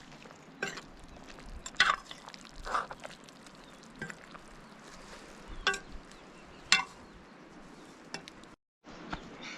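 Food frying in a pot or pan with a steady hiss, stirred with a utensil that clinks and scrapes against it about six times.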